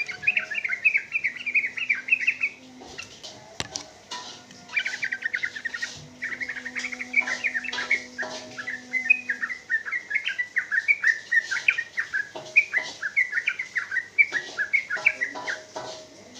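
Yellow-vented bulbul (trucuk) singing a long, rapid run of chirping notes. After a short phrase it pauses for about two seconds, then keeps up an almost unbroken run to the end: a bird in full song.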